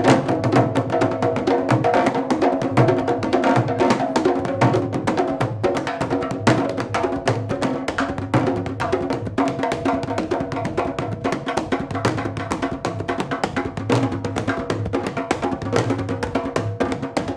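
Candombe drum ensemble playing: rapid, dense hand and stick strokes, with sharp clicks of sticks on wooden drum shells over a deep bass drum.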